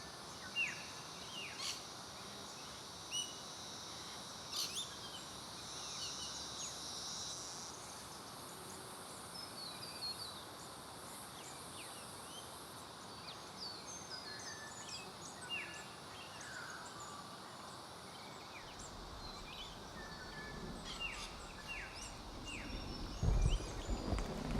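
Small birds chirping and giving short falling whistled calls on and off, over a steady high insect drone. A low rumble rises near the end.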